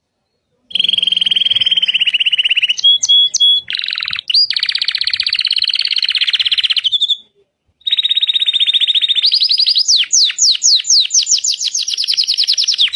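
Domestic canary singing: long, rapid trills on a near-steady pitch, broken by two brief pauses, with a run of quick falling notes about ten seconds in.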